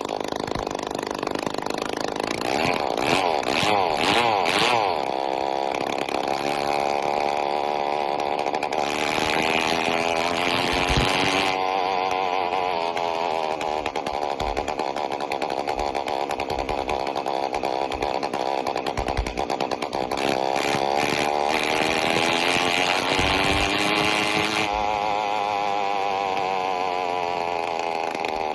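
Phantom 85 two-stroke motorized-bicycle engine run with no exhaust pipe, its pitch repeatedly rising and falling as the rider opens and closes the throttle.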